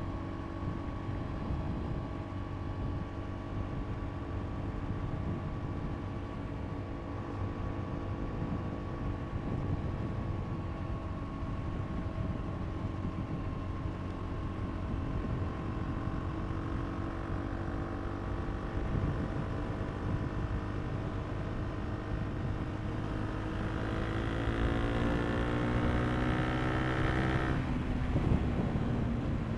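KTM RC390's single-cylinder engine under way, with wind noise on the helmet microphone. It cruises steadily, then pulls harder with its pitch rising through the second half. Near the end the pitch drops sharply as it shifts up a gear.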